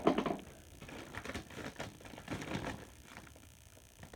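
Scattered clicks and knocks of hard plastic parts as the Electrolux canister vacuum is handled and opened to check the bag.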